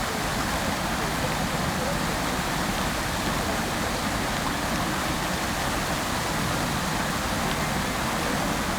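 Fountain water falling and splashing into its basin: a steady, even rush of water.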